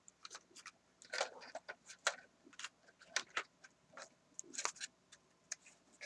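A model train running on the layout track, its wheels making irregular sharp clicks several times a second, as over rail joints.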